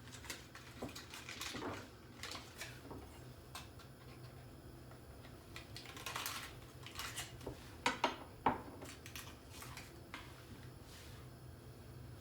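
Kitchenware being handled while preparing food: scattered clinks and knocks of dishes and utensils, with three sharp, louder knocks about eight seconds in. A low steady hum lies underneath.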